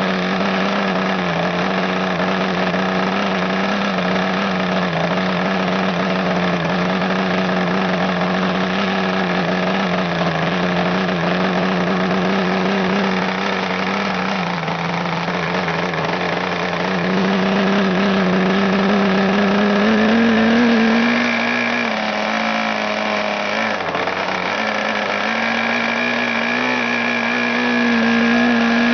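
Webra 61 RC two-stroke glow model-aircraft engine running at speed with an 11x8 propeller. It holds a steady note, the pitch climbs a little past the middle, dips briefly, then rises again near the end.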